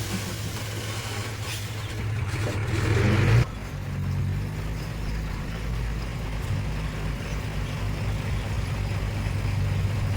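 Heavy diesel earthmoving machinery running with a steady low drone. It grows louder a little under three seconds in, then drops off abruptly to a quieter, even running sound.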